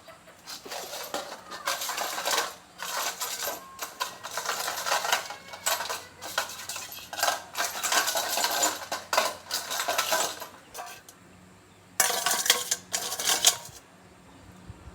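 Metal parts and tools clattering and scraping in a run of busy bursts, then a shorter burst about twelve seconds in.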